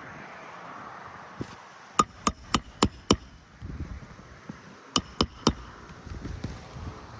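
Hand hammer driving roofing nails through asphalt shingles: a light tap, then five quick sharp strikes, and after a pause three more.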